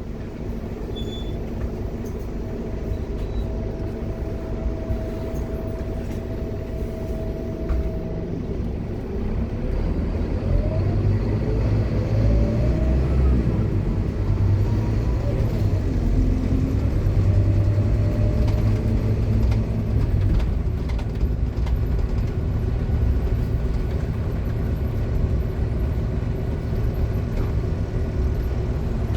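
Scania K230UB Omnilink bus on the move, its engine running steadily and then pulling harder from about nine seconds in, with the whine of its ZF Ecomat automatic gearbox rising in pitch as it accelerates.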